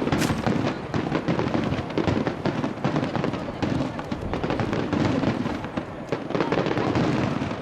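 Starmine fireworks display: a dense, unbroken barrage of aerial shell bursts going off in quick succession.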